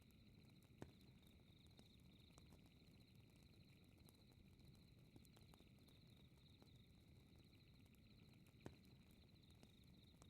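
Faint night ambience: a steady high-pitched chirping of crickets over the low rumble of a fireplace, with two sharp pops from the fire, about a second in and again near the end.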